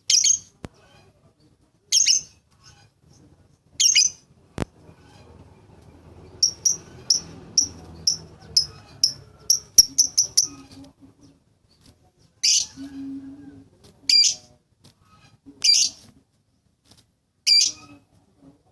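Lovebird calling: loud, shrill single calls about every two seconds, with a fast run of short chirps in the middle, played as a lure to get silent lovebirds to start singing.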